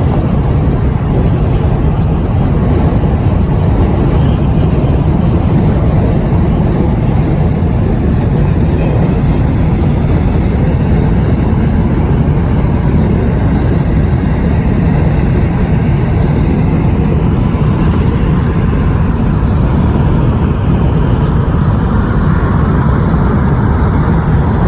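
Steady, loud rumble of a moving vehicle, with no breaks or sudden events.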